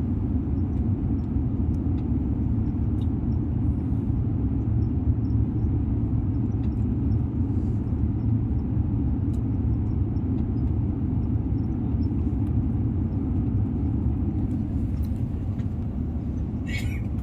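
Steady low rumble of an airliner cabin in flight: engine and airflow noise, with a few faint ticks.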